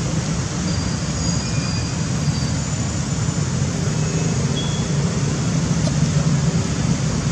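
Steady low rumbling background noise at an even level, with a few faint short high tones scattered through it.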